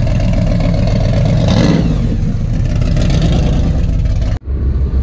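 Supercharged V8 of a C2 Corvette Sting Ray coupe running with a loud, pulsing rumble as it rolls slowly past, with a brief rev about one and a half seconds in. The sound cuts out abruptly just before the end.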